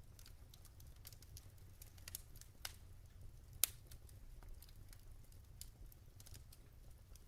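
Burning logs in a fireplace crackling: scattered small crackles and pops over a low rumble, with one sharp, much louder pop about three and a half seconds in.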